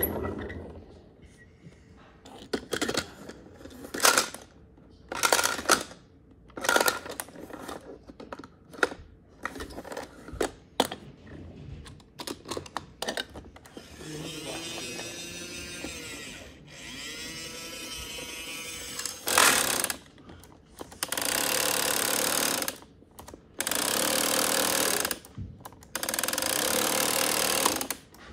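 Scattered clicks and knocks, then, after a faint steady hum, a small electric motor running in loud bursts of about two seconds with short pauses between them.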